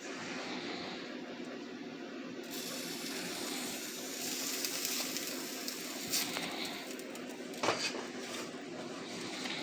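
Quesadilla sizzling in a hot pan: a steady hiss, with a couple of light clicks past the middle.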